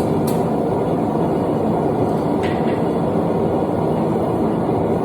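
Propane forge burner running with a steady roar.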